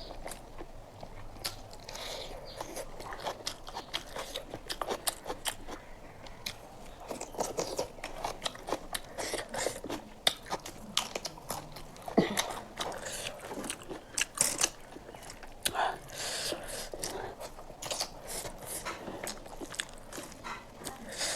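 Close-miked eating sounds: a person chewing mouthfuls of rice and curry, with wet mouth smacks and many sharp little clicks, irregular throughout.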